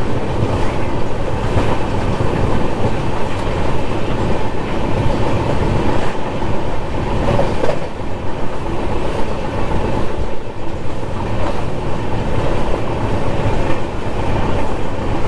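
Himsagar Express passenger train running along the track, heard from on board: a steady rumble of wheels on rails with occasional knocks over rail joints.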